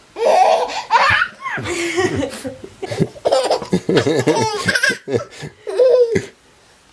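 A baby laughing in quick repeated bursts of giggles, with short pauses between them.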